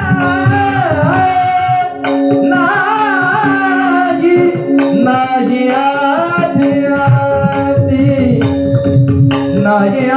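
Marathi kirtan singing: a voice carries a long, ornamented devotional melody over a steady held drone, with a drum and hand cymbals keeping a regular beat.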